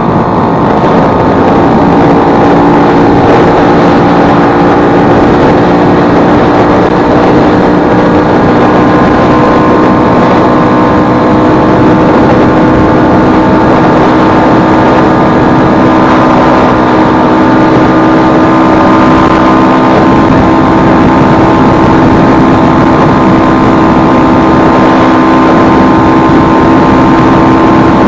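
Vespa 150's single-cylinder two-stroke engine running steadily, its pitch nearly even throughout.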